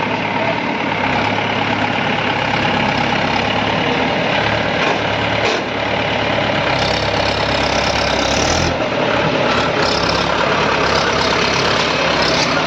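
Heavy vehicle engine running steadily at idle.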